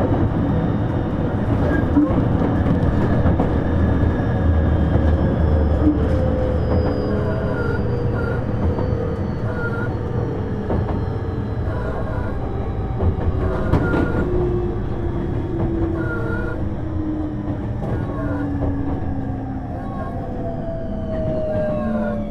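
Running sound inside a Tobu 30000 series commuter train car: wheels on rail, with the traction motor whine falling slowly in pitch as the train brakes, then dropping steeply near the end. A few sharp clicks from rail joints come through.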